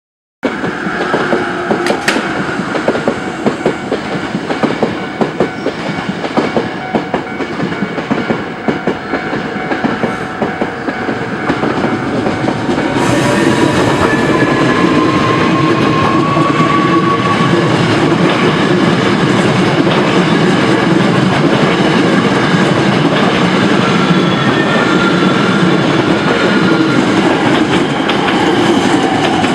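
A Hankyu Railway electric train running, its wheels clattering over the rail joints with many sharp clicks. From about halfway, the sound turns into a steadier, louder rumble with a whine that rises in pitch.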